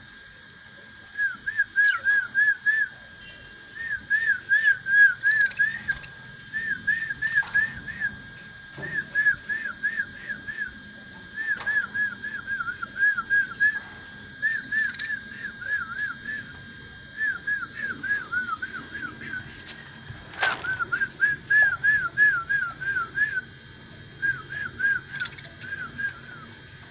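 Lovebirds chirping: runs of short, quick whistled chirps, about five a second, coming in bursts every second or two, with a few sharp clicks, one louder about three-quarters of the way through.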